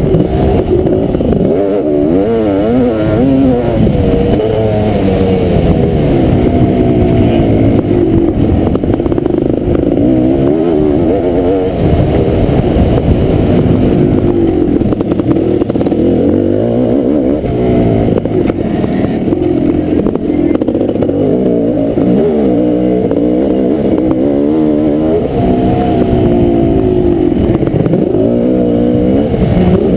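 Kawasaki KX500 two-stroke single-cylinder motocross engine racing, its pitch rising and falling over and over as the throttle is opened and shut and the gears change.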